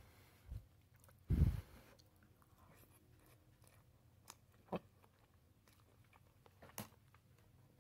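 A person chewing food close to the microphone, with one brief louder mouth sound about a second and a half in, then a few soft clicks.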